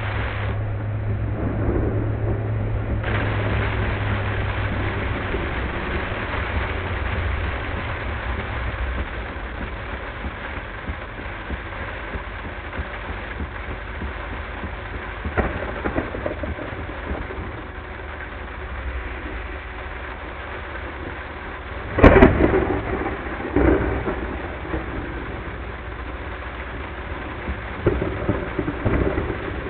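Heavy rain and road noise of a car driving through a thunderstorm, with a sharp, loud thunderclap about two-thirds of the way through that trails off into rumbling, and a few smaller cracks of thunder around it.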